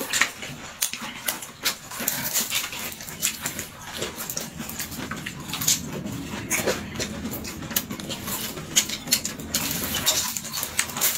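Close-miked eating: wet chewing and lip-smacking on stuffed flatbread, a dense, irregular run of smacks and clicks.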